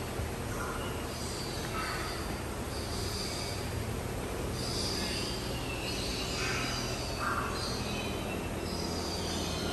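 Birds calling and chirping over and over, short high calls every second or so, over a steady low hum.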